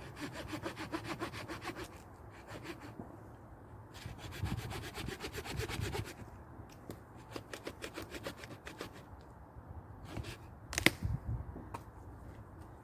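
Hand saw cutting through wood in two bouts of quick rasping strokes, the second starting about four seconds in, followed by a single sharp knock near the end.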